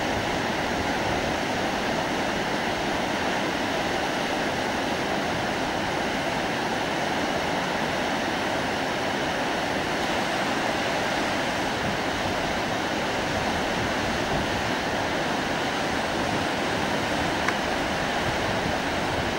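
Indus River whitewater rushing steadily, a constant even roar of fast-flowing water over rapids.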